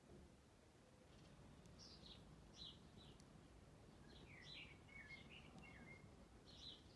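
Near silence with faint bird chirps: a scatter of short calls from about a second in, over a low background rumble.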